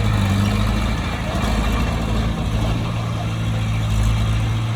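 Bulldozer's diesel engine running steadily with a constant low hum.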